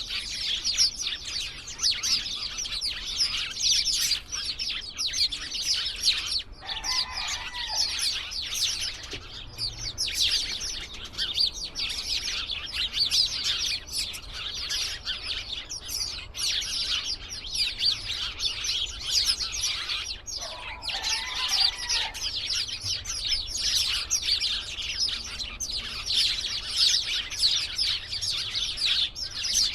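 A flock of small birds chirping together in a tree, a dense, continuous chatter of many overlapping chirps. Twice, once about a quarter of the way in and again about two-thirds through, a short, lower-pitched call stands out.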